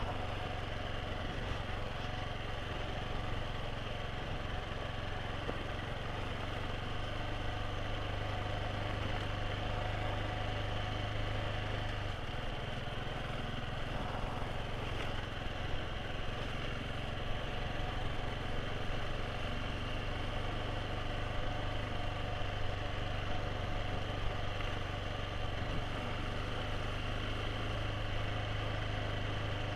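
Motorcycle engine running steadily while riding, under a constant rushing noise. The engine note shifts a little about twelve seconds in.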